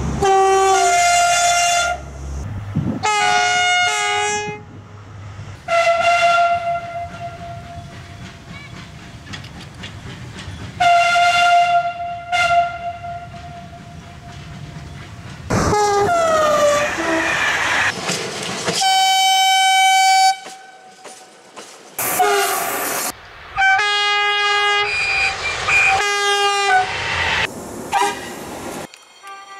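Train horns sounding in a string of blasts from several different trains, cut one after another: two-note horns stepping between a low and a high tone, some short toots and some long calls, one sliding down in pitch, over the rumble of the trains running on the rails.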